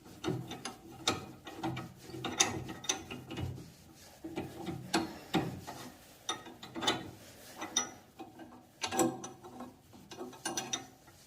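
Wrench work on a threaded pipe fitting of a heating distributor valve: repeated sharp metallic clicks and scrapes in uneven strokes as the joint is tightened.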